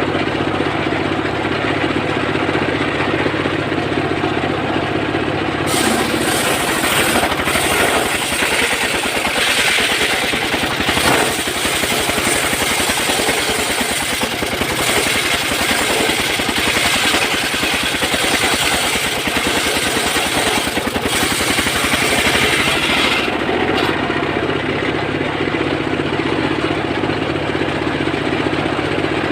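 Engine-powered saw running steadily, then biting into a mahogany log about six seconds in. It cuts with a loud, hissing, high-reaching sound for about seventeen seconds, then drops back to running unloaded for the last few seconds.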